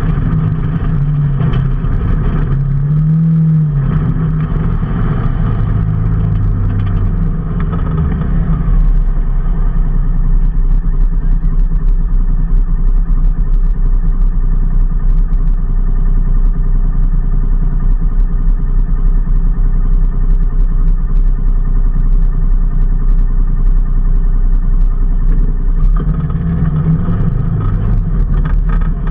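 A road vehicle's engine on the move. Its note rises and falls through the first several seconds as it speeds up and changes gear, then holds steady at cruising speed, and shifts again near the end. A constant rumble of road and wind noise runs underneath.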